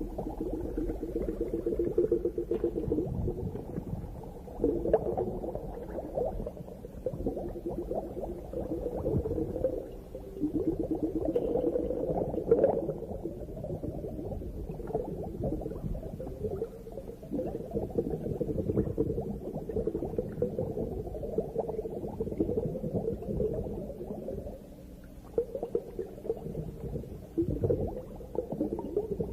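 Underwater recording: a continuous low bubbling and gurgling, dense with small crackles, swelling and easing every few seconds.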